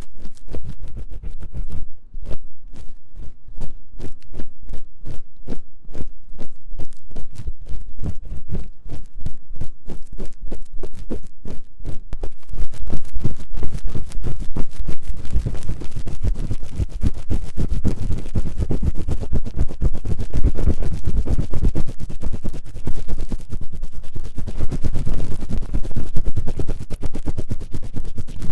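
An ear-cleaning tool scratching fast and hard inside the silicone ear of a 3Dio binaural microphone: a rapid, continuous run of scratchy strokes with a heavy low rumble. About twelve seconds in, the strokes get denser and louder.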